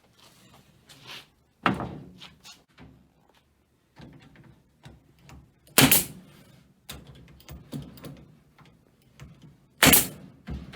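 Pneumatic stapler firing staples through hardware cloth into wood: three sharp shots about four seconds apart, with fainter knocks and handling noise between them.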